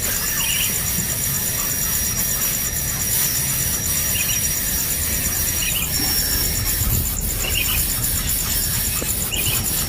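Steady high-pitched insect drone with a fast pulsing trill, and a short high chirp repeating about every one and a half to two seconds over low rumbling noise.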